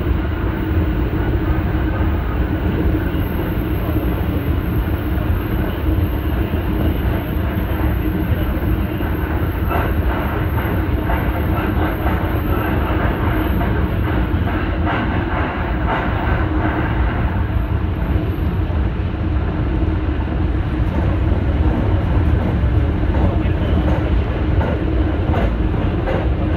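Tsukuba Express electric commuter train running at speed, heard from inside the front car: a steady rolling rumble with a steady hum. A faint high whine runs through the first two-thirds and fades out.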